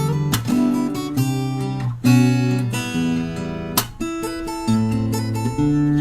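Acoustic guitar played fingerstyle: picked bass notes and melody ringing over each other, with a few sharp strummed chords.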